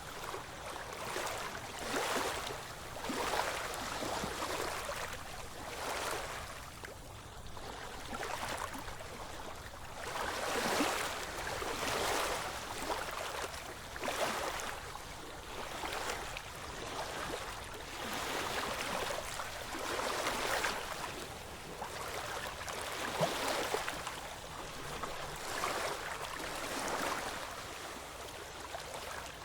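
Ocean waves washing onto the shore, the surf swelling and falling back every second or two.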